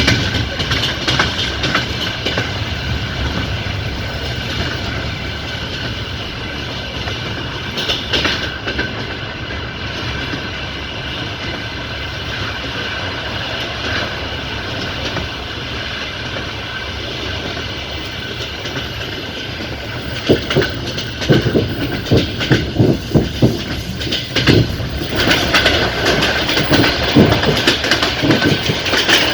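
Passenger train coach running on the rails, a steady rumble of wheels and carriage. From about twenty seconds in, a run of uneven clattering knocks as the wheels pass over track joints.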